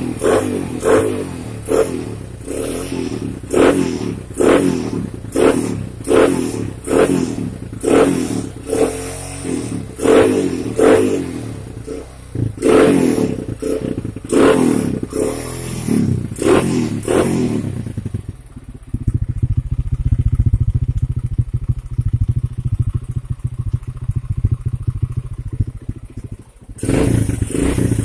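Honda Tiger Revo's single-cylinder four-stroke engine revved in quick blips about once a second through a home-hollowed exhaust with a solid bass note, then settling to a steady idle about two-thirds of the way through, with one more rev near the end.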